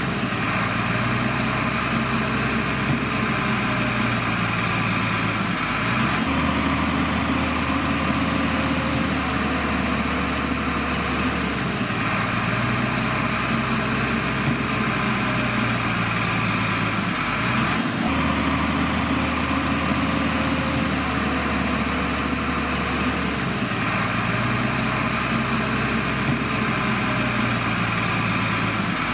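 Diesel engine of heavy earthmoving machinery running steadily, its note changing every six seconds or so.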